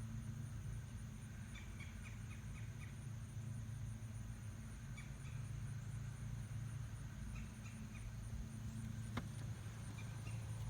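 Displaying male birds: short, high chirp-like notes in quick runs, repeated several times over a steady low hum, with a single sharp click near the end.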